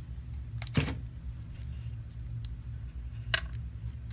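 A few light clicks and taps of small metal tools and the gold setting being handled, about twice, over a steady low hum.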